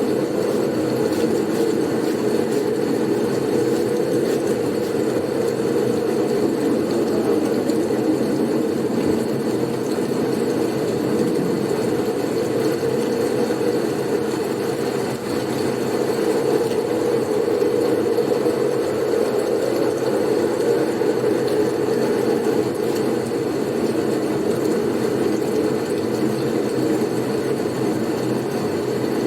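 Blizzard wind: a steady, low rushing wind noise that holds an even level throughout, with a brief dip about halfway through.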